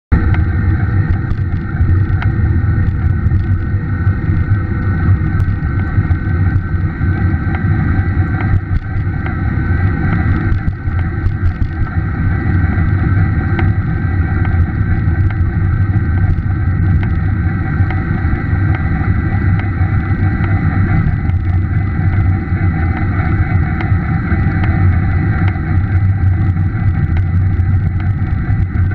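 Bosch e-bike drive unit on a Scott E-Aspect 910 running, a steady motor whine under a loud low rumble of wind noise on the microphone, with faint irregular ticks. These ticks are the tapping or popping that the motor has started to make, the fault the owner is recording.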